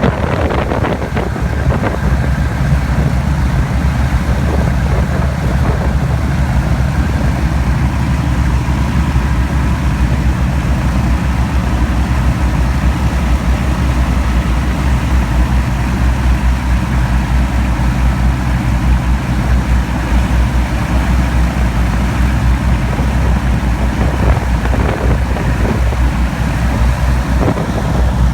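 Avro Shackleton's Rolls-Royce Griffon piston engines running steadily during a ground run, a loud, deep, even drone with no change in speed.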